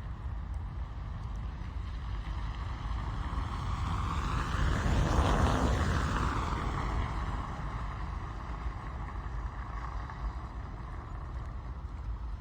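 A vehicle passing by on a wet road, its tyre hiss swelling to a peak about halfway through and fading away. Behind it is the steady rumble of rain, heard from inside a car.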